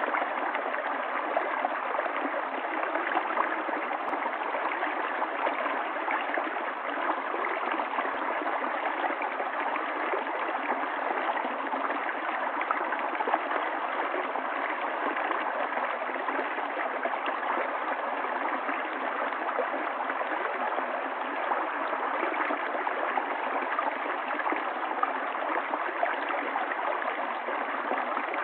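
Steady, even rush of running water from a stream, with no deep rumble and no high hiss.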